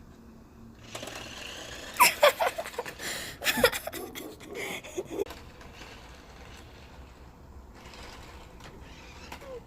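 A toy race car's small electric motor whirring for a few seconds. Several loud, high squeals and gasps come over it about two to five seconds in.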